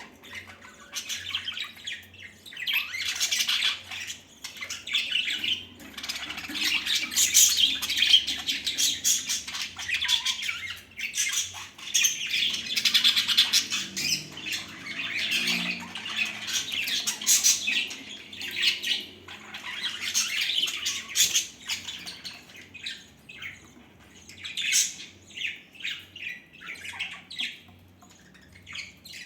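Budgerigars chattering and squawking in busy bursts of chirps, with short lulls.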